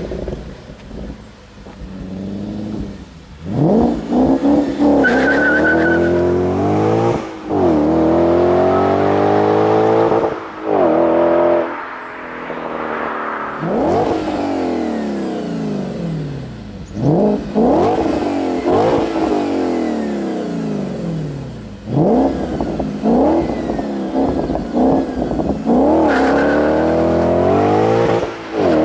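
Supercharged Audi S5 4.2-litre V8 exhaust accelerating hard several times, each time climbing in pitch and then dropping sharply or falling away as it shifts or lifts off.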